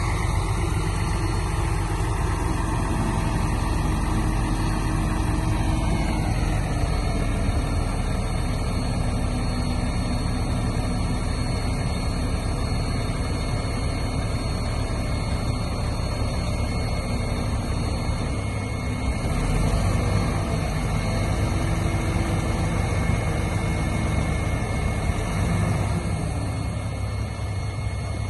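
Heavy diesel earthmoving machinery running steadily, its engine note shifting about six seconds in and swelling briefly a few times as it works.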